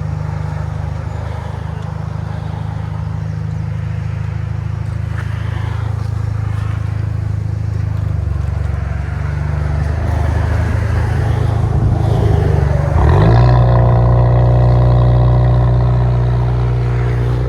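Straight-piped 2017 Kia Optima SXL's 2.0-litre turbo four-cylinder running through its open exhaust with a steady drone that slowly builds in loudness. About 13 seconds in the revs climb quickly and hold at a higher, louder drone.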